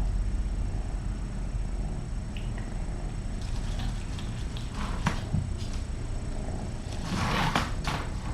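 Kitten purring close to the microphone, a low steady rumble. Soft rustling and handling noises join in over the second half, loudest shortly before the end.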